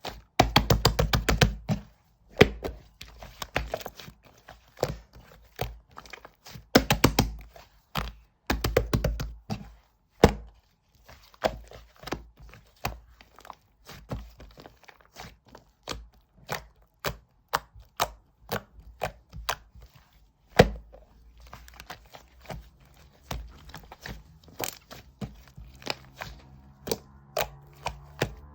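Slime being pressed, poked and squeezed by hand: rapid runs of sticky clicks and pops, with scattered single thunks and one louder knock about two-thirds of the way through.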